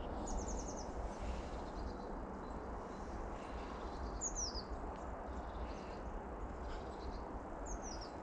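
Small birds calling: a quick high trill near the start, then two short high calls that fall in pitch, about halfway through and near the end, over a steady low rushing noise.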